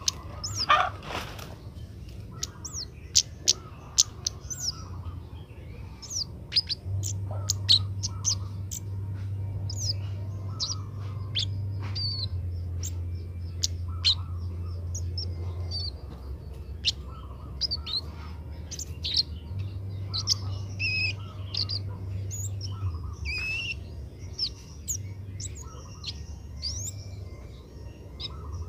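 Kemade bird chirping: a quick, irregular series of short, sharp, high chirps, many sliding down in pitch, over a steady low hum.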